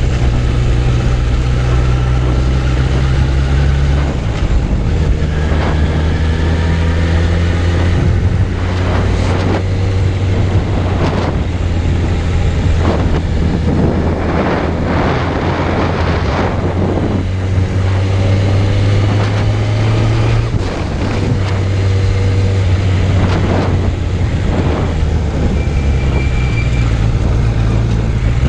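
Suzuki Bandit 600's inline four-cylinder engine running steadily while riding, with wind noise on the microphone. The engine note changes pitch about four seconds in and again about two-thirds of the way through.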